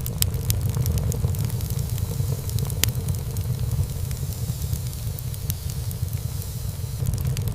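Wood fire burning in a fireplace: a steady low rumble of flames with frequent sharp crackles and pops, one louder pop about three seconds in.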